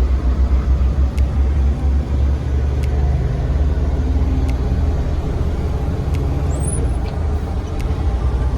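Truck on the move: a steady, loud low engine and road rumble, with faint scattered clicks.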